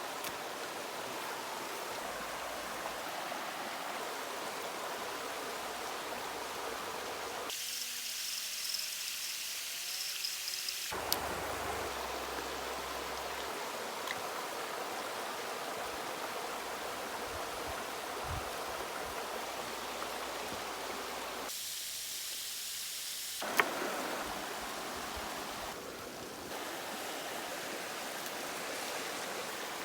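A creek running with a steady rush of water. The sound changes abruptly several times, and there are two sharp clicks, one about eleven seconds in and one near twenty-four seconds.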